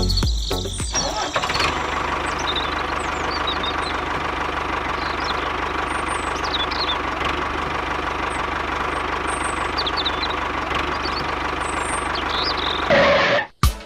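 A small engine or motor running steadily at an even idle, with birds chirping faintly over it. The running sound stops suddenly near the end.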